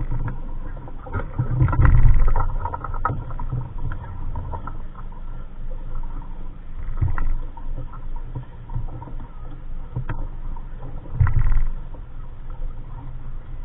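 Wind buffeting the microphone aboard a small sailboat, with scattered knocks and clicks of gear and rigging; the rumble surges twice, about two seconds in and again near the end.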